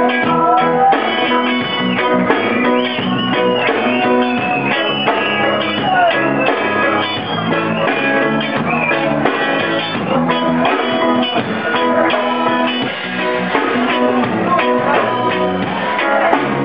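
Reggae band playing live in an instrumental passage between sung verses, with guitar to the fore over bass and drums.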